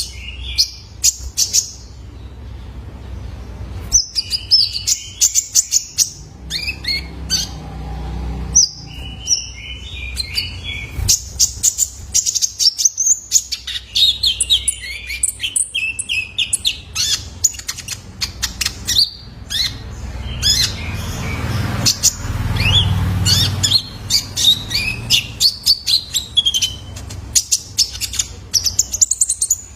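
A young male kolibri ninja (konin) sunbird chirping and twittering in quick runs of sharp, high notes and short trills, with brief pauses, over a low background rumble.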